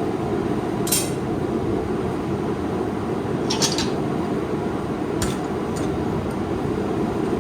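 Steel tongs clinking against a hot steel offcut three times, short sharp metallic clinks over a steady low rumble.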